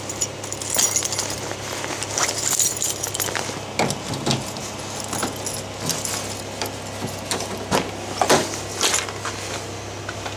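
A bunch of keys jangling and clinking as they are handled and pocketed, with scattered clicks and knocks over a steady low hum.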